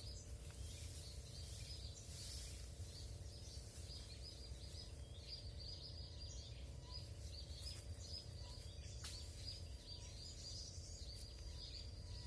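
Small bird chirping: a fast, steady run of short high chirps, heard faintly over a low rumble of wind.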